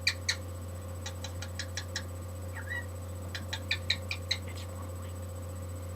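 Pet bird making runs of quick, short clicking sounds, several a second, with one soft little chirp about midway.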